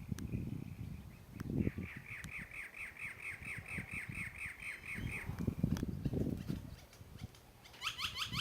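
A bird calling a rapid, even series of short down-slurred notes, about four or five a second for over three seconds, then a brief faster burst of notes near the end. Low rumbling noise comes and goes underneath.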